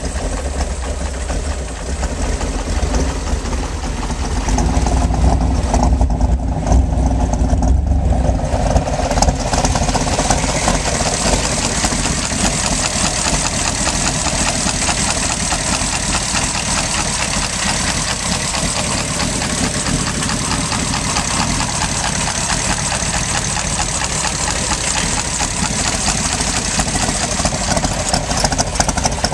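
A Shelby Cobra's 427 stroker V8, fed by individual throttle-body fuel injection and exhausting through side pipes, idling steadily. From about nine seconds in, more hiss comes through over the running engine.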